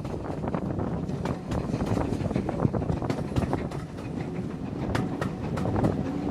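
Railway carriage running along the track, a steady rumble with irregular clicks and knocks from the wheels on the rails.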